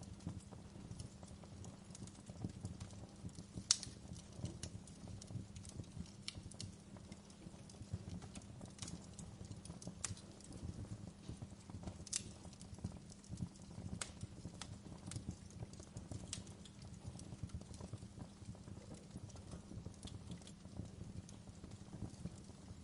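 Wood fire crackling in a fireplace: irregular sharp pops and snaps over a steady low rumble, with one louder pop nearly four seconds in.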